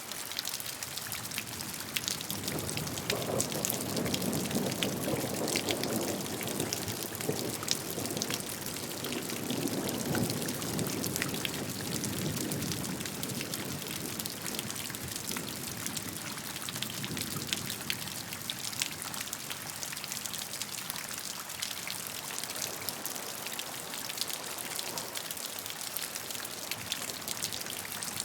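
Steady rain falling, a dense haze of noise with many individual drops ticking through it. A low, muffled rumble swells and fades in the first half.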